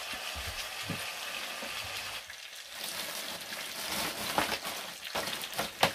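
Cajun chicken pieces and red onion sizzling in oil in a frying pan, a steady hiss with a few sharp clicks in the second half, the loudest near the end.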